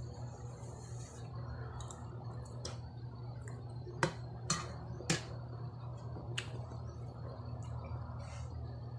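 Quiet chewing with a handful of sharp mouth clicks and lip smacks, bunched in the middle, over a steady low hum.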